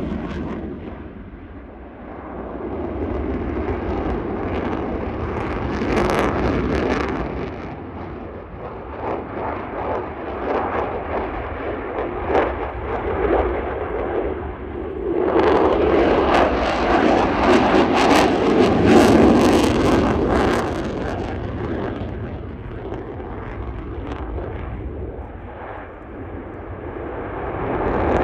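Boeing F-15QA twin-engine jet fighter's engine noise as it flies a display, swelling and fading as it manoeuvres and passes, loudest for several seconds about halfway through.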